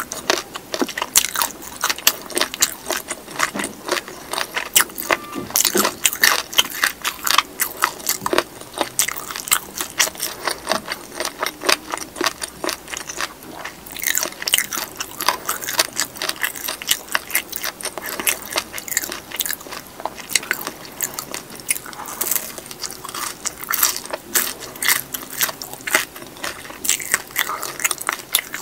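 Close-miked chewing of crispy fried chicken and potato wedges: a dense run of sharp crunches and crackles from the fried coating, with soft wet mouth sounds between bites.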